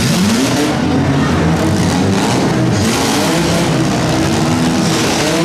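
Six-cylinder demolition derby car engines revving, the pitch rising and falling several times as the cars are driven in the pit.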